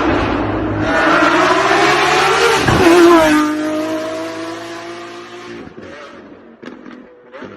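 Lamborghini Aventador SVJ's naturally aspirated V12 accelerating hard, its pitch climbing, then dropping sharply about three seconds in. The engine note then holds, falling slightly, and fades steadily as the car moves away.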